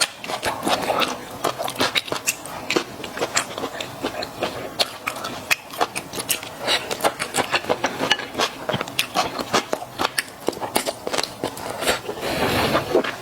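Close-miked eating of mala xiang guo with Chinese glass noodles: a rapid run of wet clicks and smacks from chewing, with a longer rushing slurp near the end.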